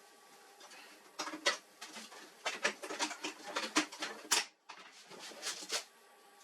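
Irregular clicks, knocks and scraping of plastic and metal parts being handled during work on a laser printer, clustered from about a second in until near the end.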